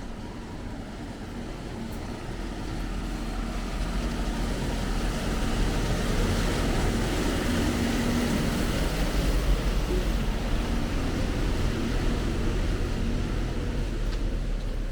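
A motor vehicle's engine running close by, growing louder over the first six seconds or so and then holding steady as a low rumble.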